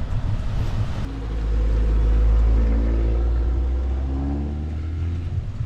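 Wind rumbling on the microphone of a moving bicycle. About a second in, a motor vehicle's engine comes in close by and runs steadily, its pitch slowly rising, until near the end.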